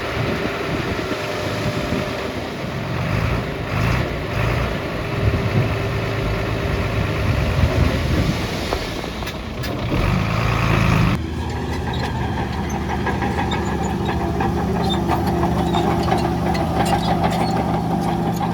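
Heavy diesel earthmoving machinery running. The sound changes abruptly about eleven seconds in to a steadier engine note with many small clicks.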